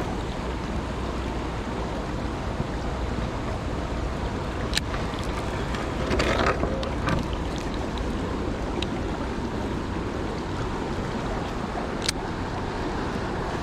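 Steady rush of river water and wind on the microphone, broken by a few brief clicks or knocks.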